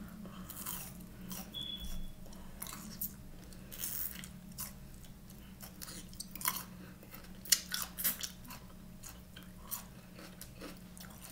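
A person biting and chewing a limp celery stalk: irregular crunches, a few louder ones past the middle.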